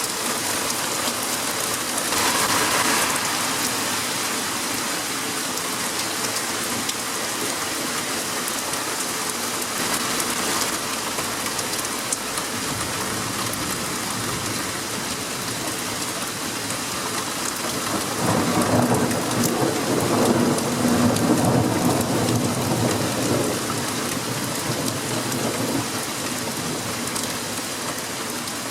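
Heavy rain falling steadily in a thunderstorm, with a long roll of thunder rumbling through about two-thirds of the way in before fading.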